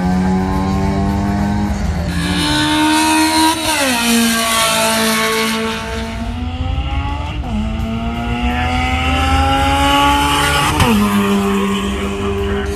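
Car engine run hard under load, its pitch climbing steadily and then dropping sharply about every three to four seconds, with a hiss of tire noise for the first few seconds.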